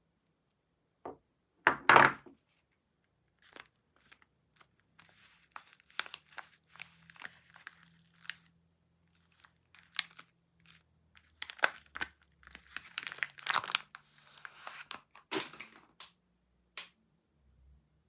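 Soap packaging being torn open and crinkled by hand: a loud rip about two seconds in, then irregular bouts of crinkling and tearing, loudest a little past the middle.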